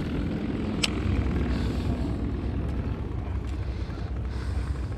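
A boat motor running steadily with a low drone, and a single sharp click about a second in.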